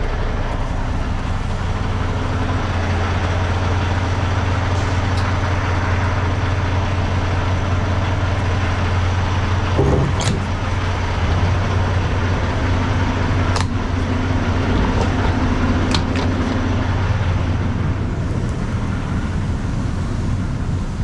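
Semi-truck diesel engine idling steadily, its hum shifting about halfway through, with a few sharp clicks and knocks over it.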